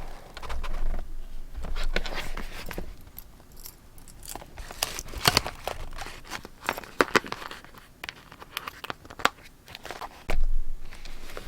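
Paper rustling and crinkling with scattered light clicks and taps as a paper journal and its pieces are handled, and a louder, duller thump near the end.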